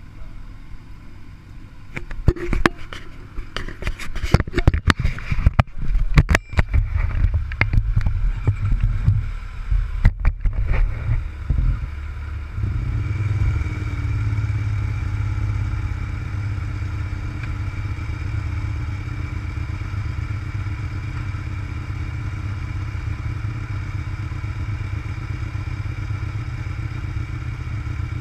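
Irregular knocks and clatter over a low rumble for the first dozen seconds, then a motorcycle engine idling steadily.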